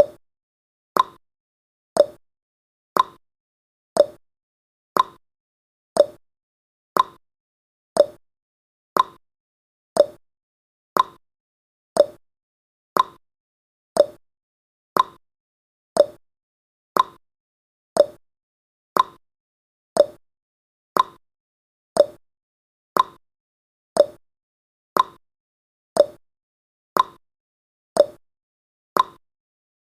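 Countdown timer's tick sound effect: a short clock-like click exactly once a second, each with a brief mid-pitched ring that dies away quickly, keeping steady time.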